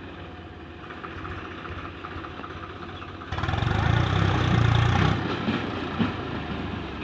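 Swaraj tractor's diesel engine running steadily. About three seconds in it abruptly becomes much louder and heavier, then eases a little near the end.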